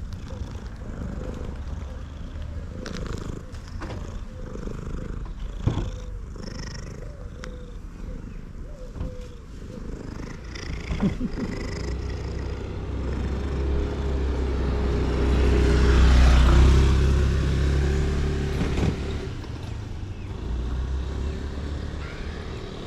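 Male cat purring loudly, a continuous low rumble, with a few sharp clicks and a louder swell of noise about two-thirds of the way through.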